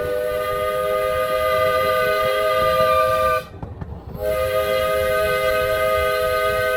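Miniature steam locomotive's whistle sounding several notes at once in two long blasts: the first lasts about three and a half seconds, and a second starts about four seconds in and is still held at the end. A steady low rumble of the train running lies underneath.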